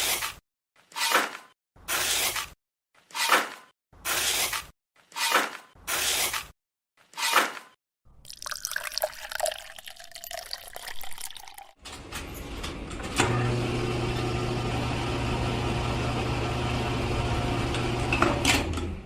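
Eight short splashes of water about a second apart, then water running or splashing, and from about halfway through a small motor humming steadily under the water noise, as a mini water pump would.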